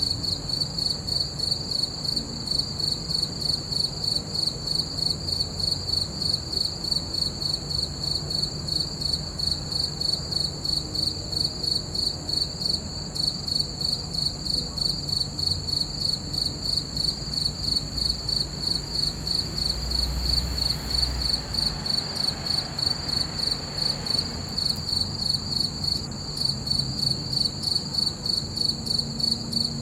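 Crickets chirping at night in a steady, even rhythm of high chirps, several a second. About two-thirds of the way through, a faint low rumble swells and fades beneath them.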